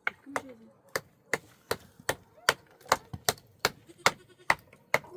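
Knife chopping on a cutting board: sharp, evenly spaced strokes, about two and a half a second.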